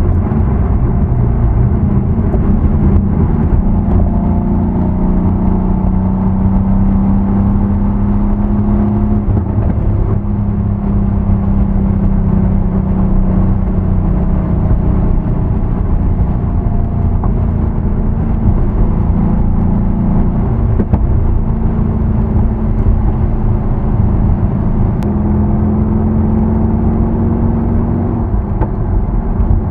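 Mercedes-AMG C63 S (W205) twin-turbo V8 on its stock exhaust, running steadily at low engine speed with a low drone whose pitch shifts only slightly, as in slow traffic.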